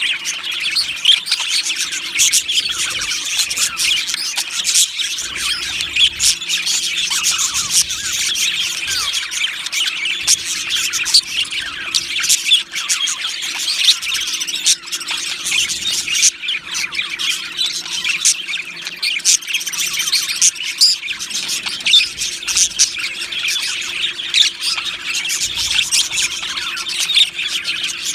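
A flock of budgerigars chirping, warbling and squawking together, dense and continuous with many overlapping calls.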